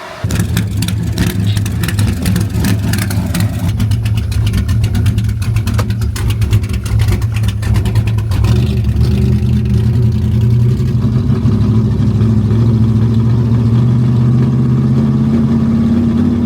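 Car engine with a newly fitted roller cam, accelerating and breaking up a little with a rapid crackle through the first half, then pulling more evenly with a slowly rising note. The break-up on acceleration is a sign that the engine's tune still needs adjusting.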